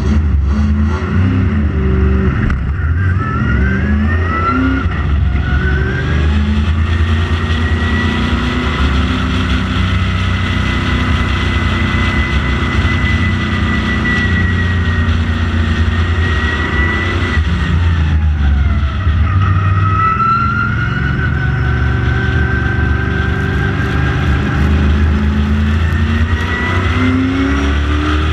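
Late model stock car's V8 engine running at race pace, its pitch rising and falling with throttle and gear changes. It holds fairly steady for a long stretch, drops about eighteen seconds in, then climbs again.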